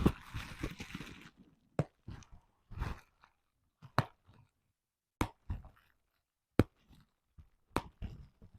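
Bubble wrap being popped by hand: about half a dozen single sharp pops, spaced irregularly a second or so apart, with plastic crinkling between them.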